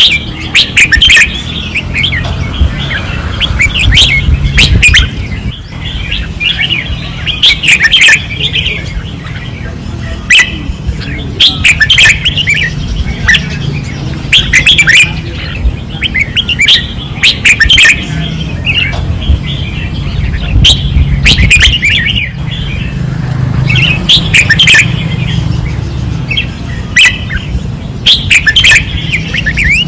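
Red-whiskered bulbuls singing fiercely on a training rail: short, loud warbling phrases, one after another every second or two, with a low rumble underneath.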